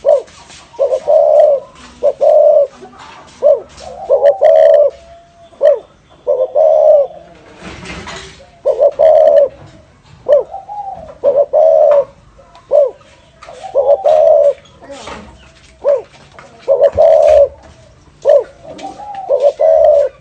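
Spotted dove cooing in repeated phrases of low, rolling coos, the 'thổ rền' style of call used to lure wild doves. There is a brief rushing noise about eight seconds in.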